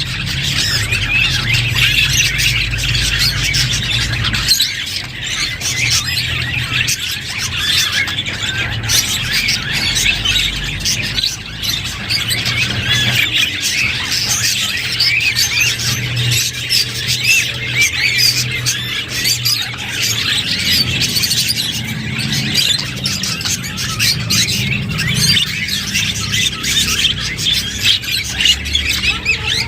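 A group of budgerigars chattering and warbling without a break, many quick chirps and squawks overlapping. A low hum runs underneath, strongest in the first few seconds.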